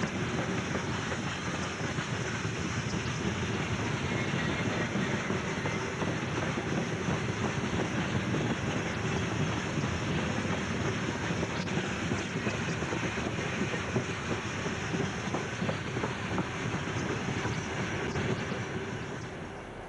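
Heavy broad-gauge freight train behind ST44 (M62) diesel locomotives rolling past close by, its wagons' wheels clattering steadily over the rails, with the locomotives' two-stroke 14D40 diesel engines working hard. The sound drops away just before the end.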